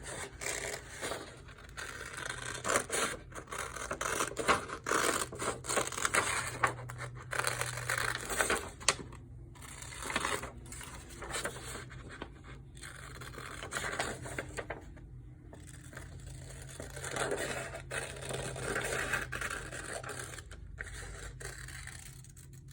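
Scissors cutting paper: irregular snips with the paper rustling and scraping as it is turned, coming in bursts with short pauses between them.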